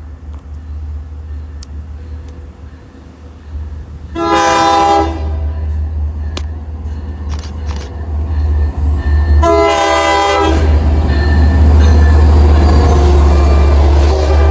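Approaching diesel train sounding its horn twice, each blast about a second long, over a low engine rumble that grows louder as it nears.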